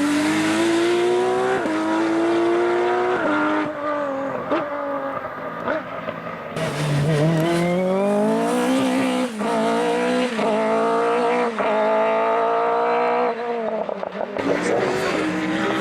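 BMW M3 race car accelerating hard through the gears, the engine note climbing and dropping at each upshift. It lifts off for a few seconds about four seconds in, then pulls again through several quick upshifts and lifts off near the end.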